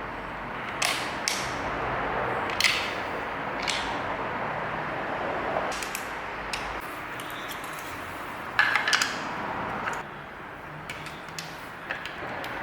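Scattered metal clicks and clinks of hand tools as the screws of a motorcycle engine cover are fitted, with a quick cluster of sharper clicks about nine seconds in, over a steady background noise.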